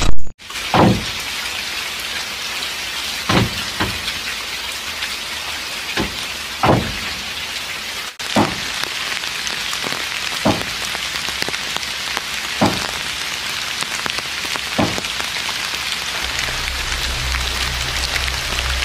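Steady drizzling rain hissing evenly, with about ten heavier drops landing one by one as short plops every second or two. A loud sharp knock comes right at the start.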